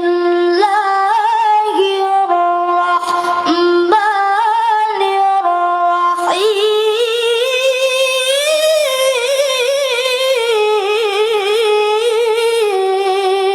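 Unaccompanied melodic Quran recitation by a single high voice, holding long ornamented notes. About six seconds in the pitch steps up, and the notes waver in trills through the rest.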